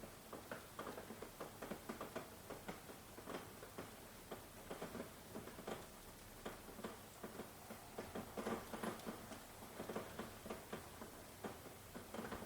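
Rain dripping and pattering, many irregular drops tapping over a light hiss.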